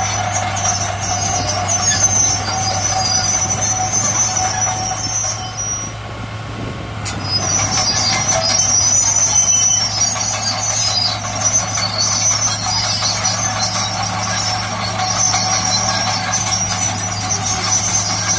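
A heavy earthmoving machine's diesel engine running with a steady low drone, with high metallic squealing and clanking over it. The sound dips briefly and changes about seven seconds in.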